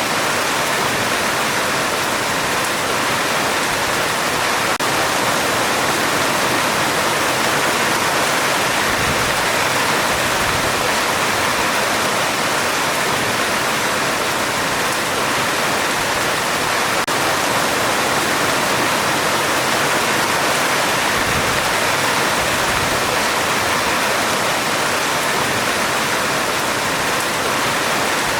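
Heavy rain drumming on a metal roof, a dense, steady hiss that holds even throughout.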